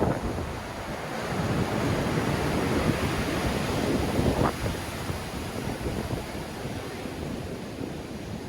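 Sea waves breaking and washing on the shore in a strong wind, the surf swelling for a few seconds and then easing, with wind buffeting the microphone in low rumbling gusts.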